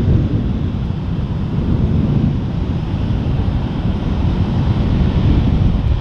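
Wind buffeting the microphone: a loud, uneven low rumble that swells and eases without a break.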